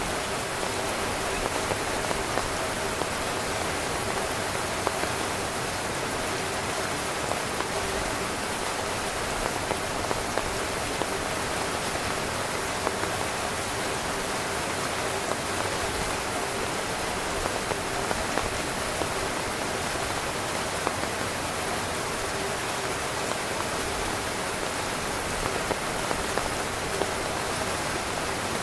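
Heavy rain drumming on a camping tent's fabric: a steady hiss of rain with many small, sharp drop impacts scattered throughout.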